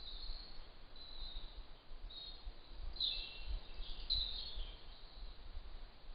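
A small bird calling in short high chirps about once a second, strongest and most run together a few seconds in, over a low steady rumble.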